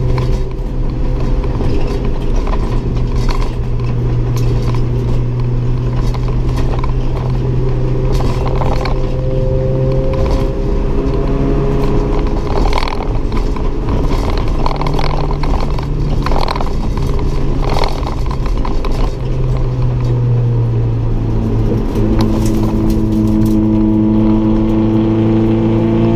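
Toyota 4A-GE 1.6-litre twin-cam four-cylinder racing engine pulling hard, heard from inside the stripped cabin. The engine note rises and falls repeatedly as the car accelerates and lifts through the lap, over road noise and frequent knocks and rattles from the bare shell.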